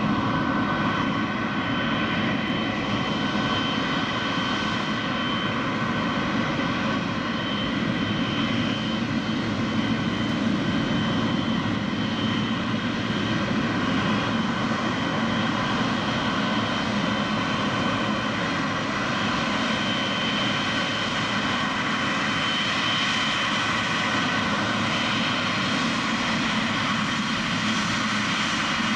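Boeing 777 jet engines running steadily as the airliner taxis, a constant rush with several steady high whining tones and no build-up of thrust.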